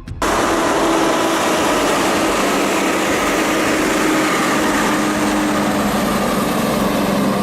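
A vehicle engine running loudly and steadily under heavy hiss-like noise. It cuts in abruptly just after the start.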